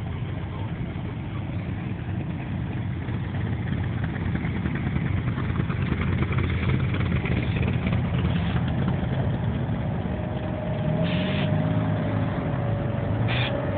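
Car engine running with a steady low rumble; near the end its pitch rises and falls as it is revved.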